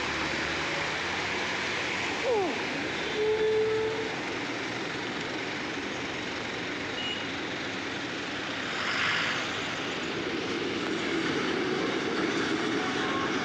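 Steady running noise of a moving metro train heard from inside the carriage. A brief falling whistle comes about two seconds in, a short squeal just after three seconds, and a hiss around nine seconds.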